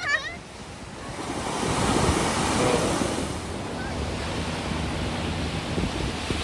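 Ocean surf: a wave swells and breaks about two seconds in, then a steady wash of surf follows, with wind buffeting the microphone.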